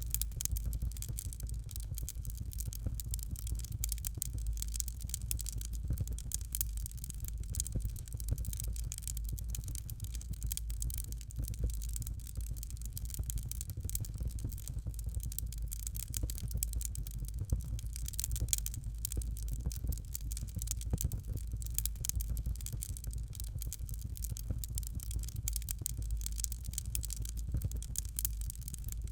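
Fire in a fireplace crackling steadily, with a thick run of small pops and snaps over a low rumble.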